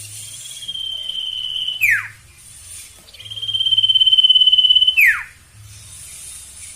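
Sirtu bird in full breeding condition singing twice: each phrase a long, fast, even trill held at one pitch and ending in a quick downward sweep, the second phrase longer and louder. A fainter trill begins near the end.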